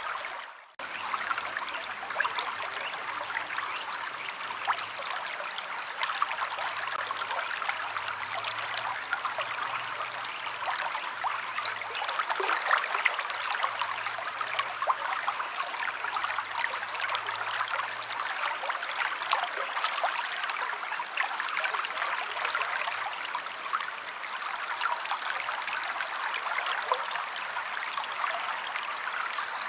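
Stream water flowing and trickling steadily, a dense babble of small splashes, with a brief dropout about half a second in.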